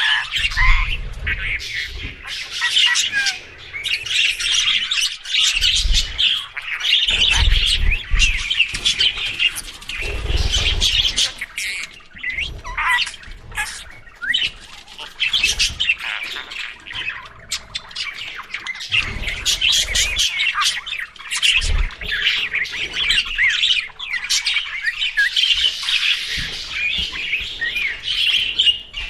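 Budgerigars chattering: a dense, unbroken warble of quick chirps and squawks, with short low rumbles now and then underneath.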